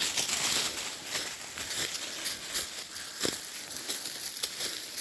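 Footsteps crunching and rustling through dry leaf litter and brush, an irregular run of crackles and snaps.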